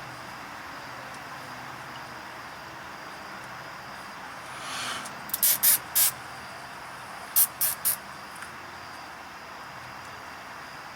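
Nylon zip ties being pulled tight around hoses: two quick runs of three short, sharp zips, about five and seven seconds in, over a steady hiss.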